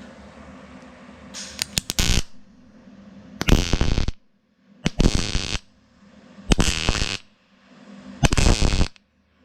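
MIG welder laying short stitch-weld bursts on thin sheet metal backed by a copper plate: five bursts of under a second each, about a second and a half apart, the first opening with a few sharp crackles.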